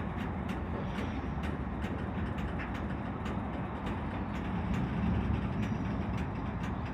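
Long CSX freight train rolling past slowly: a steady rumble of the freight cars with a run of clicks, a few a second, as the wheels cross rail joints.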